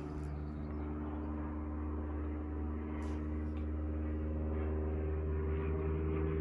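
A steady low machine hum made of several level tones, unchanging throughout, with a faint tick about three seconds in.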